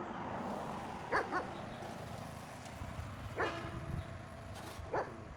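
A dog barking: a quick pair of barks about a second in, then single barks at about three and a half and five seconds, over a steady low background noise.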